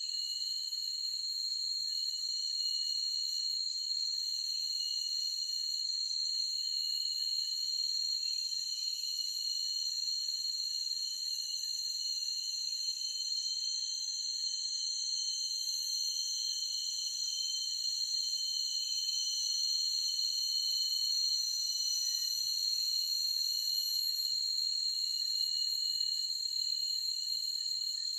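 Forest insect chorus: a steady, high-pitched shrill of several overlapping tones, unbroken throughout.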